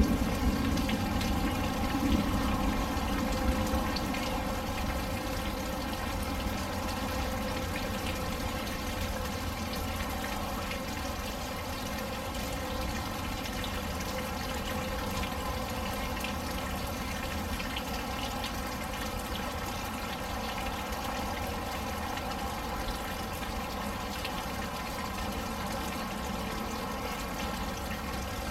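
Rain pouring steadily with water splashing and trickling, a little louder in the first few seconds before settling to an even level.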